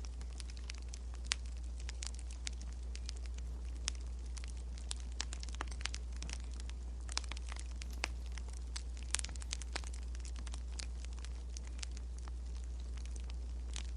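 Wood fire crackling: irregular sharp pops and snaps, several a second and uneven in loudness, over a steady low hum.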